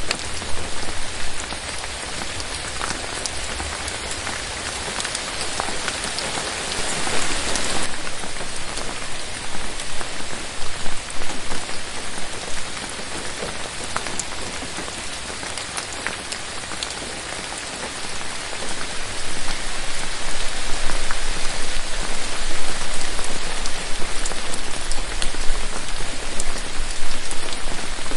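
Steady rain falling on forest foliage: an even hiss scattered with individual drop ticks. It swells briefly about a quarter of the way in and grows louder from about two-thirds of the way through.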